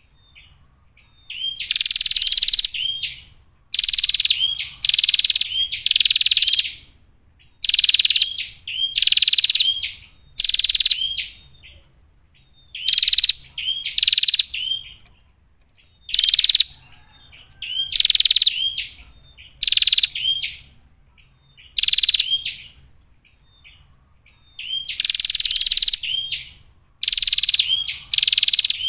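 Female prenjak (prinia) calling: loud, harsh, rasping calls, each about half a second to a second long, repeated roughly once a second in runs broken by short pauses.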